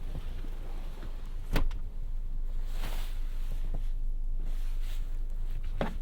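2017 Audi A3 driving, a steady low rumble of road and engine noise, with two short sharp knocks, one about a second and a half in and one near the end.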